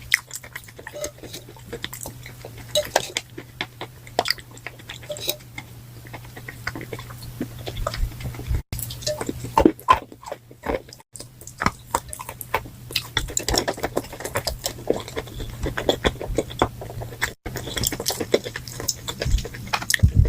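Chalk coated in grey clay paste crunching up close, a dense, irregular run of small crisp crunches that grows busier past the middle, over a low steady hum.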